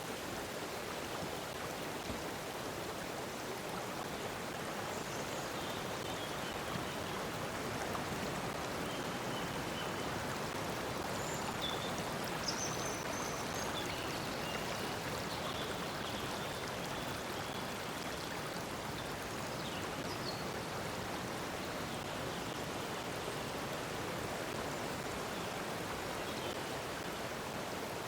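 Stream water flowing steadily, with a continuous rushing babble. Faint, short, high bird chirps come and go through the first two-thirds.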